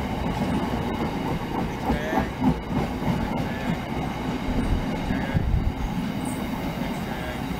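Freight train of bogie hopper wagons passing close at speed: a loud, steady rumble of wheels on rail, with scattered knocks and clatter from the wagons running over the track.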